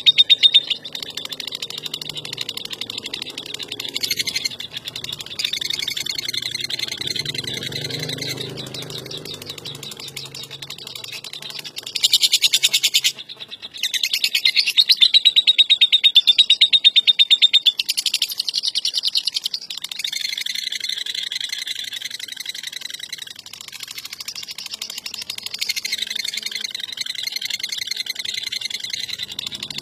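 Lovebird chattering in long, rapid trills, the 'ngekek' song, with several loud stretches and a brief break about 13 seconds in.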